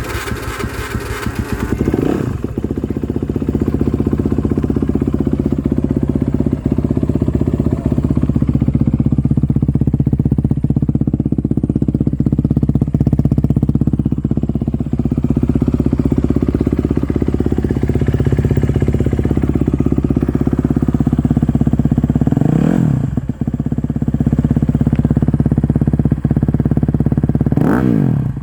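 A 2021 Honda CRF250R's single-cylinder four-stroke engine idles steadily through a full Yoshimura dual exhaust, just fired on the electric starter from cold. It gets quick throttle blips about two seconds in, around twenty-two seconds in and near the end.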